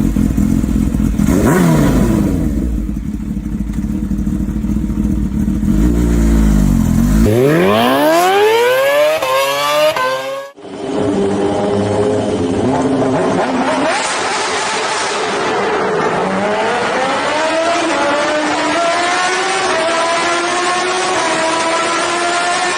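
Kawasaki Ninja H2's supercharged inline-four engine through a Brock's Performance aftermarket exhaust, run hard on flybys. Its pitch climbs steeply under acceleration, breaks off suddenly about ten seconds in, then returns on a second pass where it dips briefly before rising steadily again.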